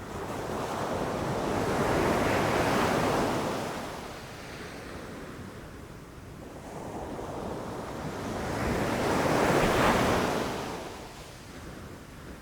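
Ocean waves breaking on a beach: two waves surge in, one about two seconds in and one near ten seconds, each swelling to a crash and washing back.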